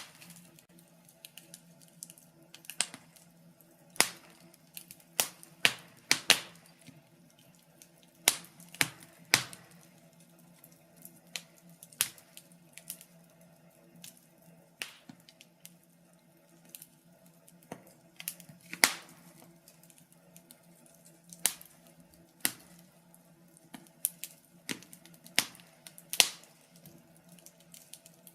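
Wood fire crackling in a fireplace: irregular sharp pops and snaps, a few louder cracks every second or two among fainter ticks, over a faint steady hum.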